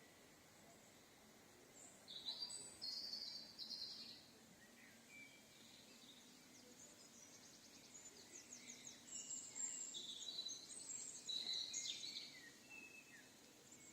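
Songbirds singing: high-pitched chirps and trills in two spells of song, one about two seconds in and a longer one from about eight seconds, over a faint steady background.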